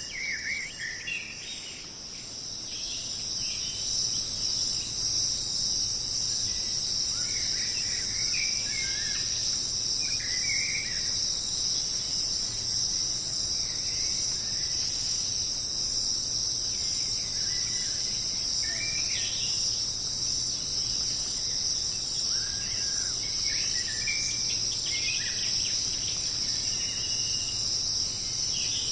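Dense, steady chorus of jungle insects, one continuous high-pitched hum, with short bird calls scattered through it. The chorus swells up over the first few seconds, then holds steady.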